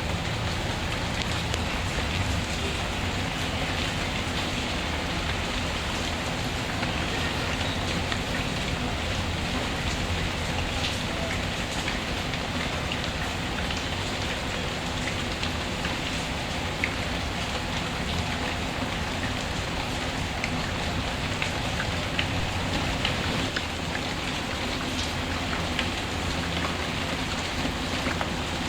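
Steady rain falling, with scattered faint pops and crackles of a wood fire.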